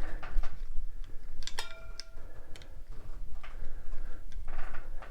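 Barrel lap being worked by hand in a Harley-Davidson crankcase main bearing race: irregular metal clicks and scraping as the lap is turned, with one short metallic ring about a second and a half in.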